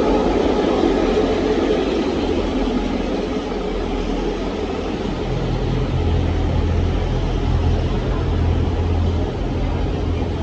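Steady rumble and low hum of a diesel train. The engine note shifts and grows stronger about halfway through.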